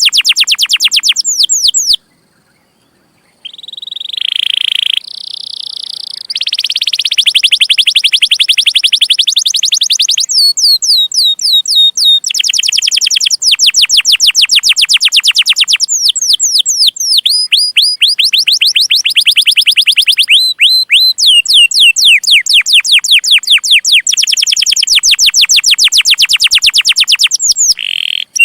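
Domestic canary singing: long, rapid runs of repeated high sweeping chirps and trills, broken by a short silence about two seconds in and a few held whistled notes after it.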